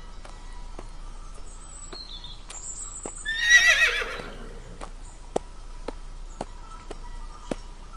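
A horse whinnies once, a wavering call that falls in pitch, about three and a half seconds in. Hooves clip-clop at a walk after it, about two steps a second, and faint bird chirps come before the whinny.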